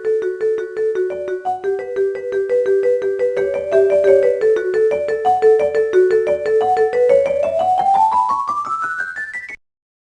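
Keyboard music played in quick, evenly repeated notes. Near the end the melody climbs in a steady rising run of notes, then cuts off suddenly.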